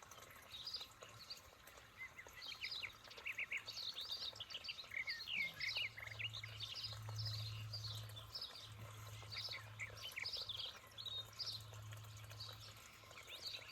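Small birds chirping, many short high calls overlapping throughout, over a steady low hum that is strongest in the second half.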